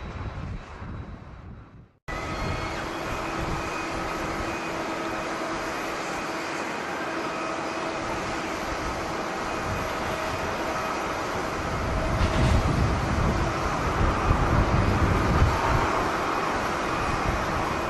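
Jet airliner engines running: a steady noise with several held whining tones. The sound cuts off abruptly about two seconds in and resumes at once. Strong gusts of wind buffet the microphone, heaviest from about two-thirds of the way through.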